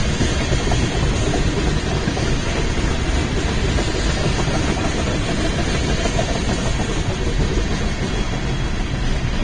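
A BNSF train's cars rolling past, a steady rumble of steel wheels on the rails.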